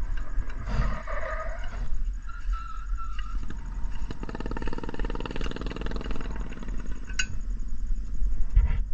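Racing mower's small petrol engine revving, strongest from about four seconds in until near the end, over a steady low rumble.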